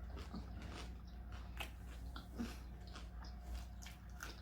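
A person chewing a mouthful of taco close to the microphone, with faint, irregular mouth clicks.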